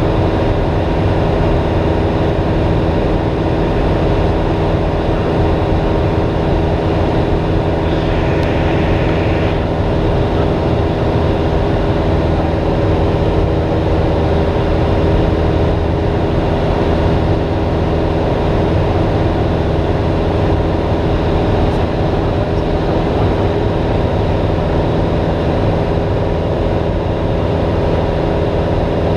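Cessna 172S in flight: its four-cylinder Lycoming engine and propeller drone steadily at constant power.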